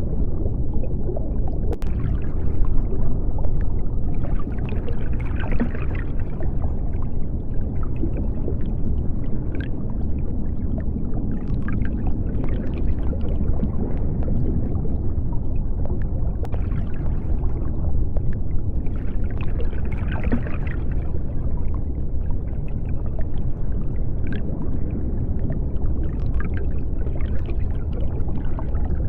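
Underwater ambience: a steady deep rumble with scattered gurgling bubbles, and brief swells of bubbling about five seconds in and again near twenty seconds.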